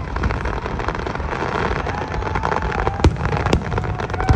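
Aerial fireworks bursting overhead: a dense crackle of many small reports, with a few sharper booms about three seconds in and again near the end.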